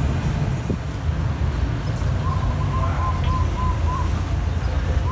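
Low, steady rumble of a diesel train approaching. About two seconds in, a bird calls a quick run of short, evenly repeated notes.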